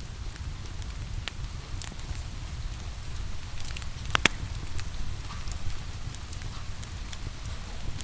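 Wood fire crackling, with scattered sharp pops (the loudest a quick pair about halfway through) over a steady low rumble, and rain falling in the background.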